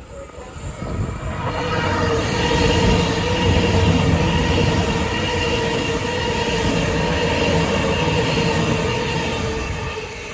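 Sydney electric suburban train running past the platform. Its rumble builds over the first two seconds, stays loud with steady whining tones above it, and eases off near the end.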